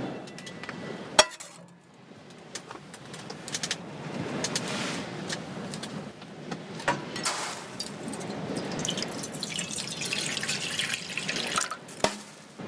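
Liquid trickling and splashing with many small drips and clicks, after a single sharp clink about a second in.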